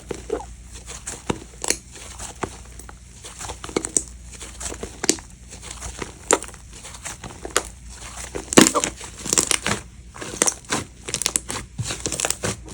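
Slime being squished and poked by hand, making irregular clicks and crackles that grow busier over the last few seconds, with the loudest burst about two-thirds of the way through.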